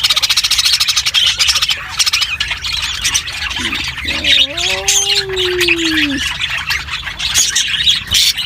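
A flock of lovebirds chattering and squawking in rapid, continuous shrill calls. About four seconds in, a single low drawn-out tone sounds for about two seconds and falls at its end.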